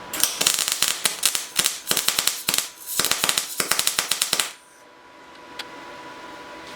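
MIG welder arc crackling in two runs, with a short break a little past halfway, as a weld bead is laid to build up a steel shaft. It stops about four and a half seconds in.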